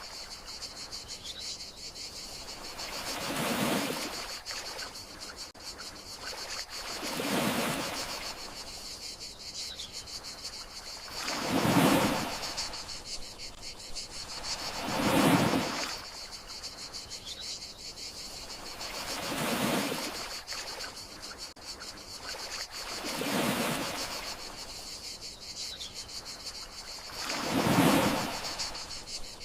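Gentle sea waves washing onto the shore, each swelling and fading about every four seconds, over a steady high chirring of crickets.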